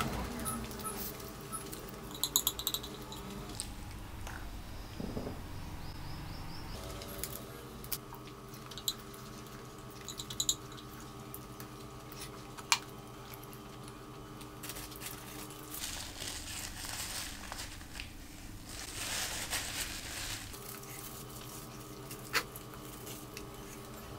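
Close-miked eating sounds: chewing and sharp mouth clicks of a person eating spicy masala Maggi noodles by hand. A faint steady hum runs underneath, dropping out twice and coming back.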